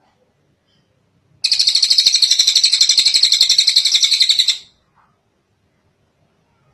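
Tengek cililin songbird singing one long, rapid, high-pitched trill of about thirteen notes a second. It starts about a second and a half in and stops abruptly after about three seconds.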